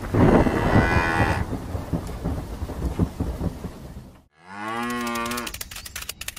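Thunder rumbling with rain, loudest in the first second and a half. After a sudden brief silence a cow moos once, for about a second, with a pitch that falls and then holds. Rapid clicking follows near the end.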